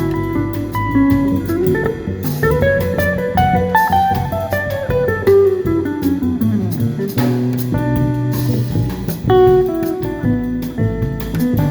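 Jazz trio playing live: a guitar plays melodic lines over low held notes and light drum cymbals, with a long run falling in pitch about midway.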